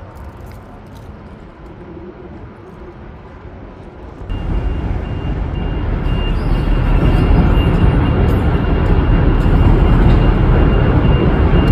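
A train running past with a loud, steady low rumble that starts abruptly about four seconds in, after a quieter stretch of background noise. A thin, steady high-pitched tone rides over the rumble.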